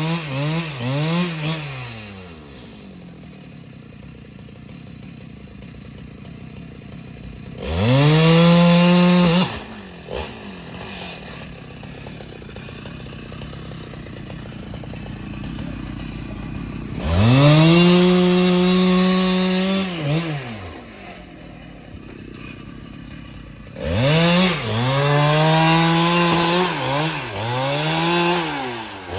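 Husqvarna 395XP two-stroke chainsaw idling between throttle-ups. It gives several quick revving blips at the start, a burst of about a second and a half at full throttle near 8 s, a longer one of about three seconds near 17 s, and a run of blips and high revs over the last five seconds.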